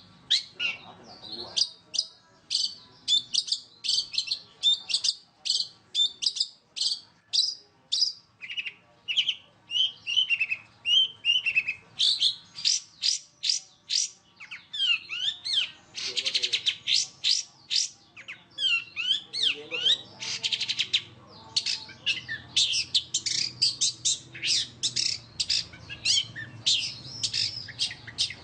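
Long-tailed shrike (cendet) singing a fast, closely packed song of sharp chirps and whistles, the tight rapid-fire 'roll speed' delivery that cendet keepers prize, with two buzzy rattling trills about halfway through.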